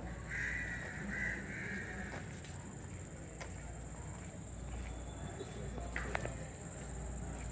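Outdoor ambience: a bird cawing three times in the first two seconds, over a steady high-pitched drone, with a faint click about six seconds in.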